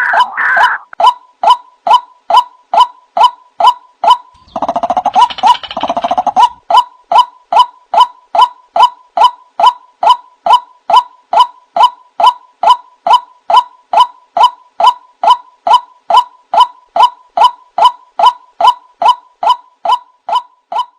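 White-breasted waterhen (ruak-ruak) call played as a hunting lure: a steady string of loud "kruwok" notes, about two a second, broken about four and a half seconds in by a couple of seconds of faster, harsher chattering before the regular notes resume.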